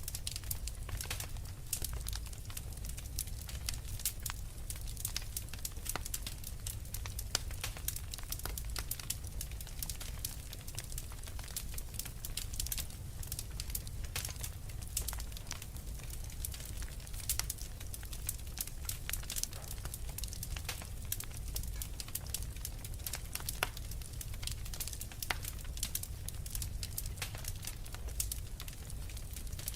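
Wood fire crackling steadily in a fireplace: dense irregular pops and snaps from the burning logs over a low rumble of the flames.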